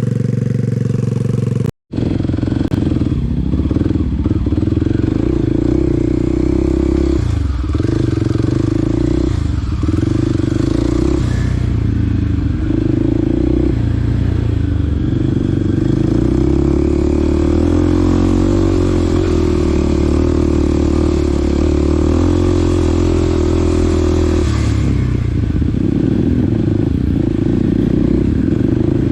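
Small dirt bike's engine running under way, its pitch dipping and picking up again every few seconds as the throttle is eased and reopened. The sound breaks off for an instant about two seconds in.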